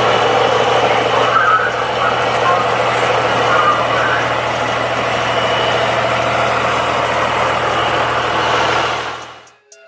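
Car engines idling with a steady low rumble, which fades out near the end.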